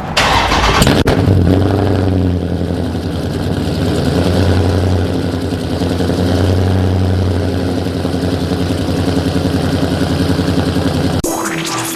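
Dodge Charger Scat Pack's 392 Hemi V8 starting up with a loud flare, then settling into a steady idle. About eleven seconds in, the engine sound cuts off and music begins.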